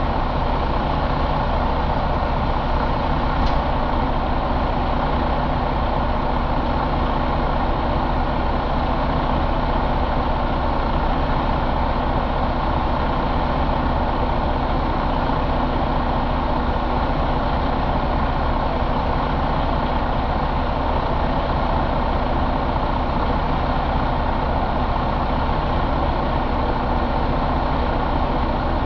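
2017 Detroit DD15 inline-six diesel engine running steadily at a constant speed.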